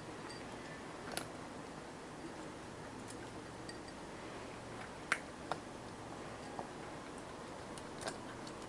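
A few faint, scattered sharp clicks over a steady low background hiss.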